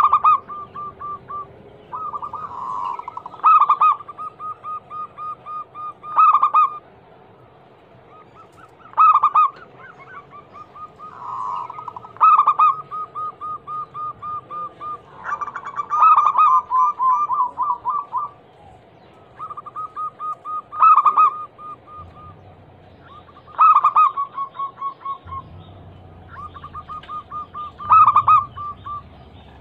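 Zebra dove cooing: phrases of rapid staccato notes, each with a louder accented note, repeating every two to three seconds.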